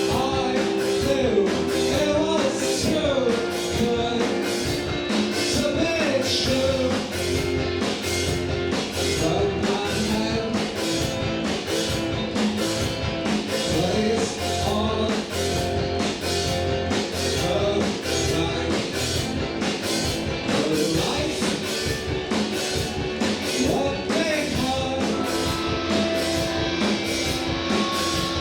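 Indie rock band playing live: electric guitars and drum kit with a singer's voice over them, steady beat throughout.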